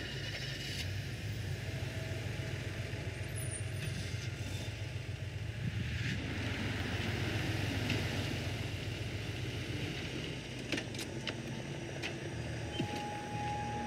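Car engine idling with a steady low rumble, heard from inside the car. A few short clicks come near the end.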